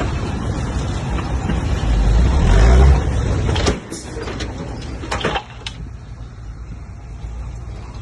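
Bulldozer's diesel engine working hard, its pitch rising about two to three seconds in, then falling away sharply. A few sharp knocks or clanks follow, and the engine runs more quietly after that.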